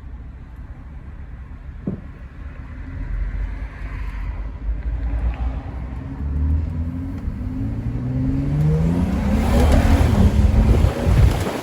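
Car engine accelerating hard, its revs climbing steadily and growing louder, with a brief break near the end, as at a gear change.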